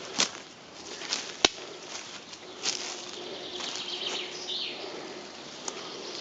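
Footsteps rustling through forest grass and undergrowth, with several sharp twig snaps in the first few seconds. Songbirds call in the background.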